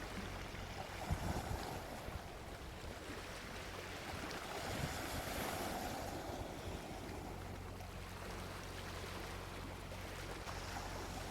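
Soft sea waves washing onto a beach in a steady hiss that swells gently about a second in and again around five seconds, with a few low thumps under it.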